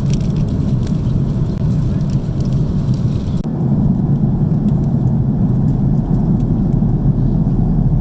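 Steady low roar of an Airbus A330-300 in flight, engine and airflow noise heard inside the cabin. About three and a half seconds in the sound changes abruptly, losing its upper hiss and gaining a low hum.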